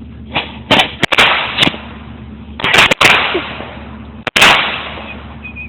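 Firecrackers going off: a string of sharp, loud bangs spread over about four seconds, each followed by a brief rushing hiss.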